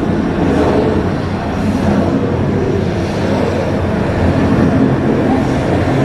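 Jet airliner engines running, a loud steady noise with most of its weight low down.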